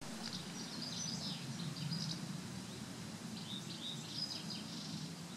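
Small birds singing outdoors: two spells of quick high chirps, the first over the opening two seconds and the second around the middle, over a steady low background rumble.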